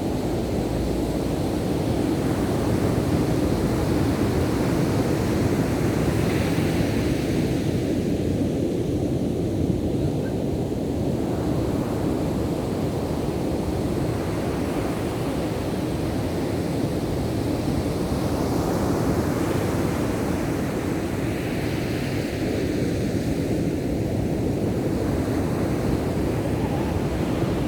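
Ocean surf: a steady rush of breaking waves, with the hiss of a wave washing in swelling about six seconds in and again about twenty-two seconds in.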